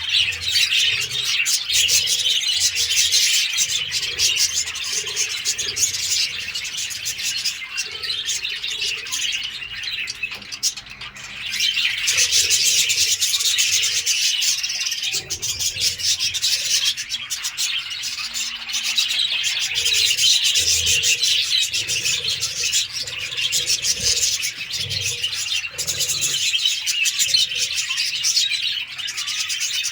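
A flock of parrots chattering, a dense, continuous mass of rapid high chirps that swells louder about twelve seconds in.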